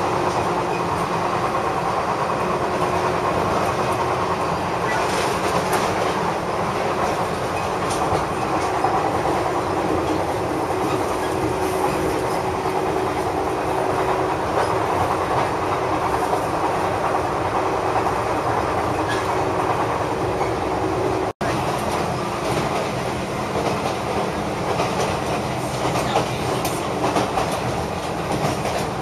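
Running noise heard from inside the saloon of the ex-Seibu 5000 series 'Red Arrow' electric train (Toyama Chiho Railway 16010 series) travelling at speed: a steady rumble of wheels on rail with faint clickety-clack over the rail joints. The sound cuts out for an instant about three-quarters of the way through.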